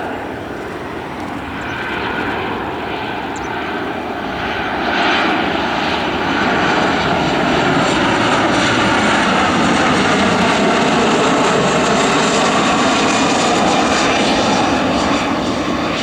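Jet noise from a Boeing P-8A Poseidon's twin CFM56 turbofan engines as it lands. It grows louder over the first several seconds and then holds steady, with whining tones slowly falling in pitch, before easing slightly near the end.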